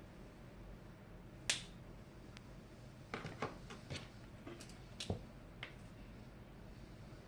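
Paper and stationery being handled while making a journal: one sharp click about a second and a half in, the loudest, then a scatter of small clicks and taps over the next few seconds.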